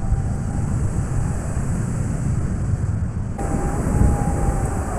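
Steady low rumble of rushing river water mixed with wind buffeting the microphone, with faint distant voices.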